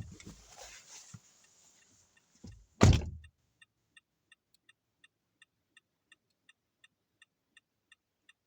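A car door shuts with a heavy thump about three seconds in, cutting off the outdoor noise; then the car's turn-signal indicator ticks evenly, about three ticks a second.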